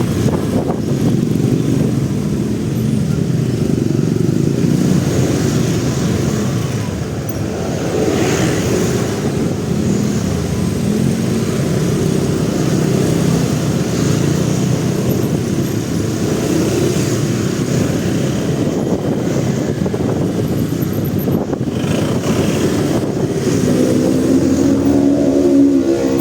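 Motorcycle running through congested city traffic, its engine mixed with the noise of surrounding cars and motorbikes. A steady pitched hum joins near the end.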